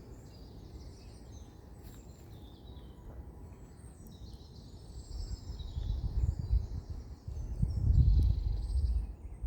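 Small birds singing and chirping in woodland, with wind gusting as a low, uneven rumble from about five seconds in, loudest near eight seconds.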